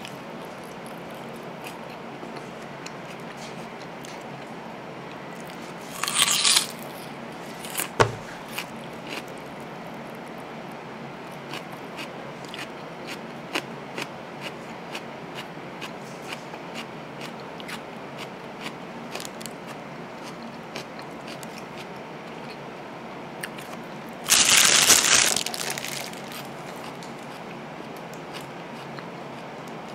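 Close-miked chewing of a hamburger, with many small wet mouth clicks. There is a brief louder crunch about six seconds in, a sharp knock a couple of seconds later, and a longer crunchy burst of about a second near the end.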